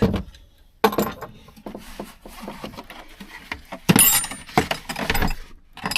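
Metal hand tools clattering and clinking in a toolbox as it is rummaged through, with sharper knocks about a second in and again near four seconds.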